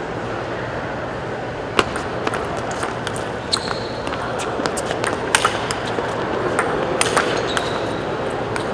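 Table tennis rally: a celluloid-type plastic ball clicking sharply back and forth between the table and the rackets, about two hits a second, starting about two seconds in, over a steady murmur of the crowd in the hall.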